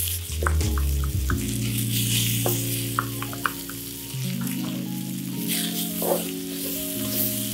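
Chopped garlic and pepper strips sizzling in oil in a stainless steel pan, with a wooden spoon stirring and scraping the pan now and then. Soft background music with held notes plays underneath.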